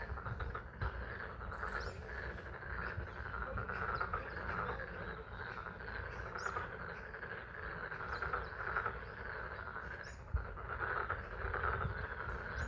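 A pond's chorus of frogs calling continuously, a dense pulsing din of many overlapping calls, over a steady low rumble, with a few brief high chirps now and then.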